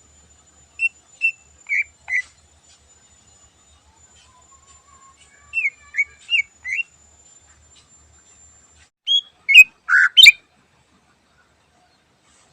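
Cucak ijo (greater green leafbird) singing: three short bursts of about four loud, clear whistled notes each, the last burst the loudest and ending in a sharp click.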